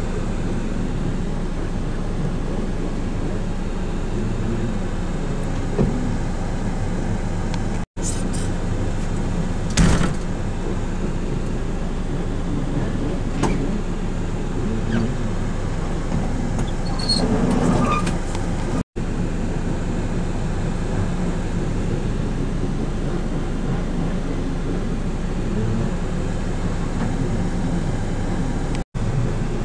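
An engine running steadily at an even speed, with a few brief knocks and the sound cutting out for an instant three times.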